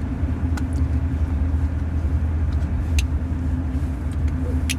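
Chevy Trail Boss pickup truck driving, heard inside the cab: a steady low rumble of engine and road noise, with a few sharp clicks, the loudest near the end.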